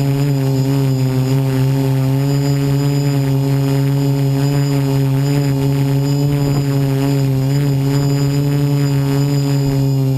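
DJI Flame Wheel 450 quadcopter's electric motors and propellers running with a steady, loud hum that wavers slightly in pitch, heard from a GoPro mounted on the airframe.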